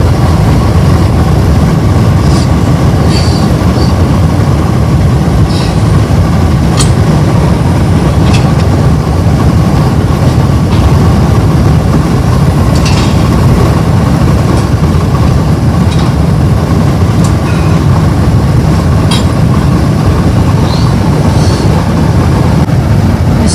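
Steady low rumble of a car travelling at highway speed: tyre and road noise, with a few faint scattered clicks.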